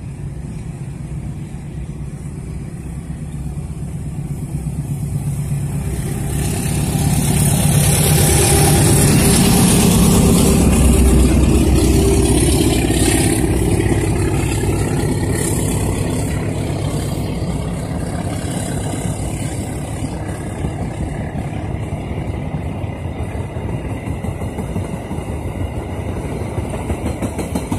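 Argo Parahyangan passenger train passing close by on diesel locomotive haulage: the sound builds and is loudest about eight to twelve seconds in as the locomotive goes past, then the coaches roll by with a steady rumble of wheels on rails.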